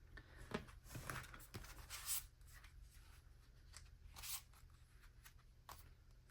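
Faint rustling and a few soft knocks from handling paper or plastic items on a desk, over a steady low hum.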